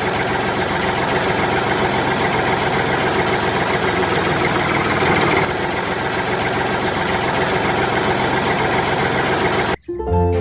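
Small diesel engine of a DIY mini tractor running steadily, with a dense, rapid knock, then cutting off abruptly near the end.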